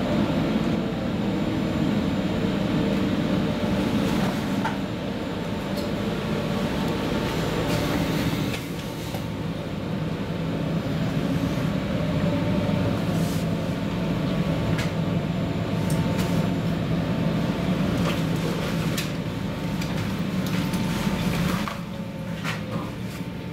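Electric commuter train running: a steady low hum and rumble with a faint steady tone and scattered light clicks. The level drops briefly about eight seconds in and again near the end.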